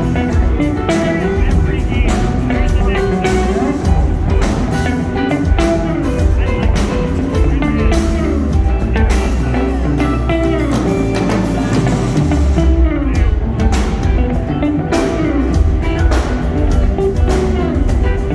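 Live rock band playing an instrumental passage, with electric guitar lines over a drum kit and bass, recorded from the audience.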